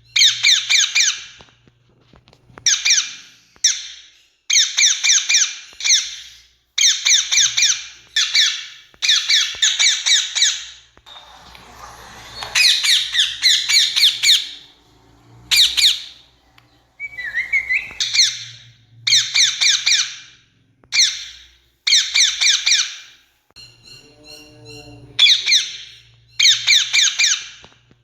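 Rose-ringed parakeets giving loud, harsh screeching calls in quick runs of short notes, one run about every second, with calls overlapping around the middle.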